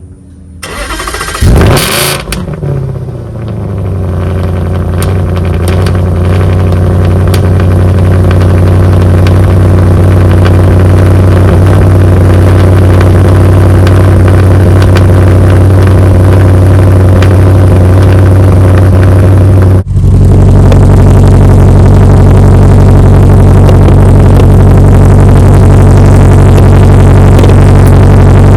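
Audi engine with its muffler and resonator deleted, starting up with a rev flare that falls away into a loud, steady idle with a deep drone through the open exhaust. The sound drops out for a split second about two-thirds in, then the idle carries on.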